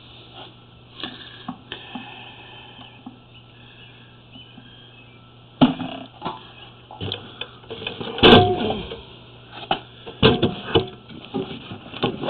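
Sewer inspection camera and its push rod knocking and clattering inside a 3-inch ABS drain line, over a steady low hum. The knocks are irregular and start about halfway through, with the loudest one a little after that.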